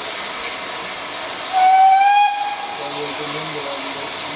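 Steam locomotive whistle giving one short blast of about a second, slightly rising in pitch, about a second and a half in, over a steady hiss of escaping steam.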